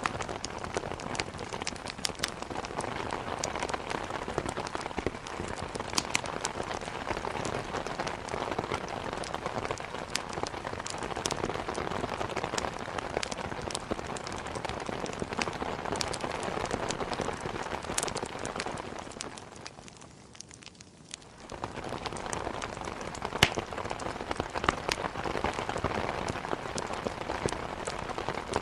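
Steady heavy rain on a surface, with scattered sharp pops and clicks from a crackling wood fire. The rain dips almost to quiet for about two seconds, around twenty seconds in, then comes back.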